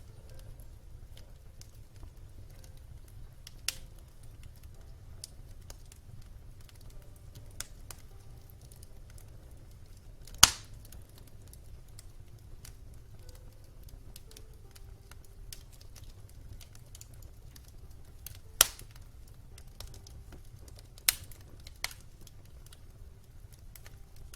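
Wood fire in a fireplace crackling: a steady low rumble of the burning logs with fine continual crackle and a few sharp pops, the loudest about ten and eighteen seconds in.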